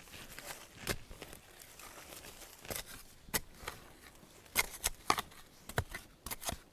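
Irregular snaps, crackles and rustles of plant stalks and leaves being handled and broken, a dozen or so sharp clicks scattered through.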